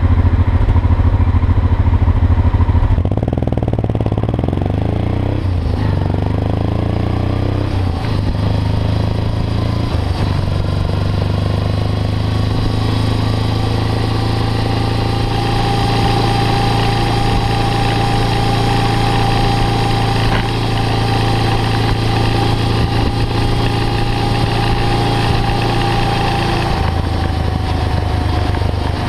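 Motorcycle engine running, with a strange noise the owner cannot place. Its pitch rises and falls a few seconds in, then settles into a steady run, and a thin high whine sits over it from about halfway through.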